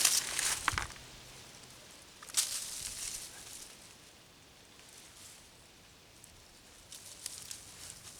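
Dry leaf mulch rustling as it is moved, in short bursts: loudest at the start and again about two seconds in, fainter and sparser after that.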